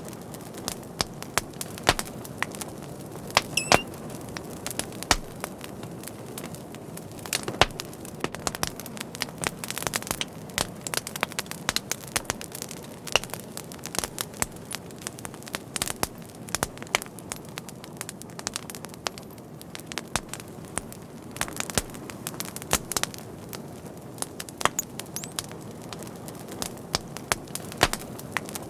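Fire crackling: irregular sharp pops and snaps, a few in quick clusters, over a steady low rustle of the flames.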